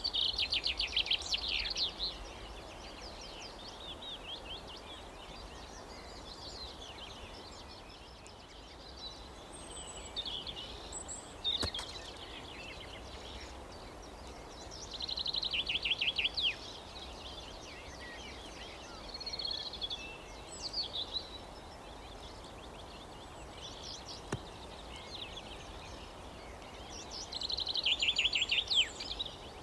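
Songbirds singing outdoors: three loud trilled phrases of about two seconds each, near the start, about halfway and near the end, with softer calls between them over a steady outdoor background. A sharp click sounds twice, once just before halfway and once later on.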